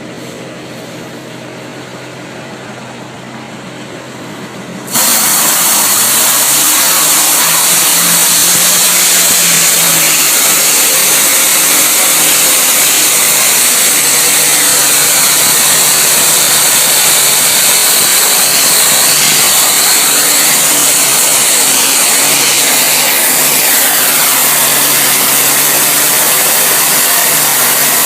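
A gum-removal cleaning machine's motor running steadily. About five seconds in, its cleaning jet switches on with a sudden, loud, steady hiss that keeps going.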